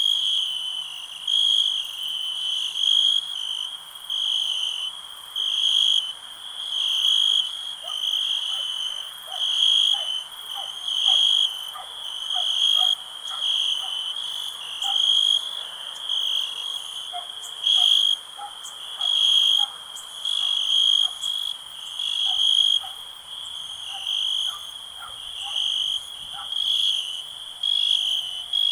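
Crickets chirping in a high, pulsing chorus that swells about once a second over a steady, higher-pitched trill. Faint, short, lower-pitched clicking calls come and go through the middle.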